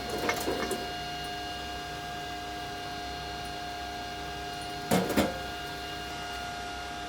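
Inverter welding machine humming steadily with a fixed electrical whine made of several tones. A few light clicks come in the first second, and two sharp knocks about five seconds in.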